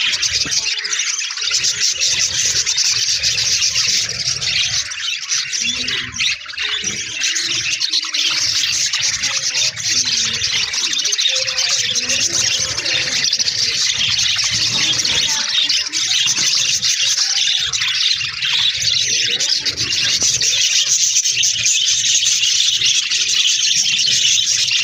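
A flock of budgerigars chattering and warbling continuously, many birds calling at once in a dense, high-pitched squeaky chorus.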